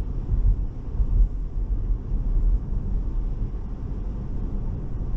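Steady low road and tyre rumble heard inside the cabin of a Tesla electric car cruising on Full Self-Driving Beta, with no engine sound.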